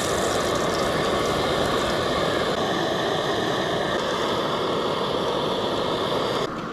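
Steady hissing rush of a camp stove burner under the pancake griddle, with a few faint steady tones in it. It stops suddenly near the end.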